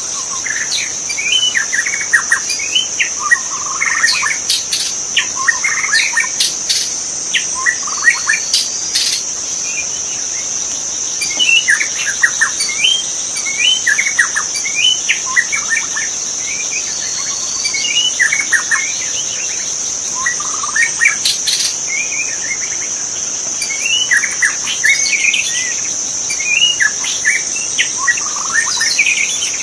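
White-rumped shama (murai batu) singing a varied run of short whistled phrases, over a steady high-pitched insect drone.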